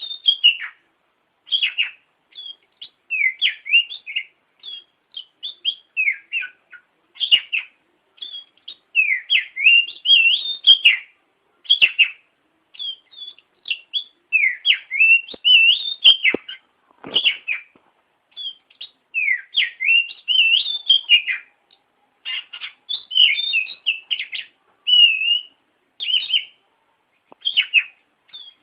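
Oriental magpie-robin (kacer) singing non-stop: quick, varied whistled phrases, each a second or two long, with short pauses between them.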